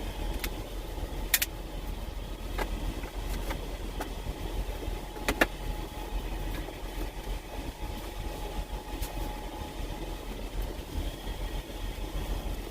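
Steady low hum of a truck engine idling, with a few sharp clinks on top, the loudest about a second in and again about five seconds in.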